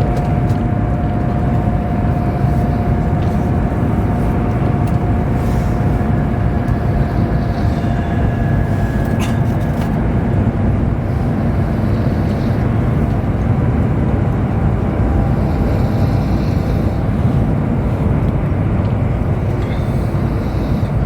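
Steady low rumble and rush of a high-speed train running at speed, heard from inside the passenger cabin. A faint steady tone fades out partway through, and there is a brief click about nine seconds in.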